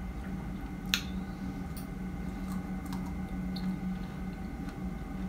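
Close-miked chewing of fresh strawberries: soft wet squishing and small mouth clicks, with one sharp click about a second in. A steady low hum runs underneath.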